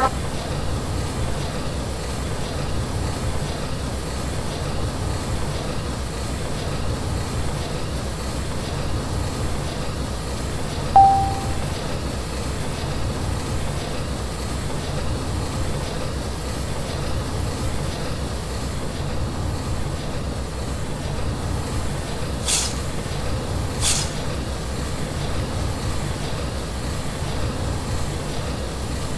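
Train running with a steady low rumble. A brief short tone comes about eleven seconds in, and later two short bursts of hiss come a second and a half apart.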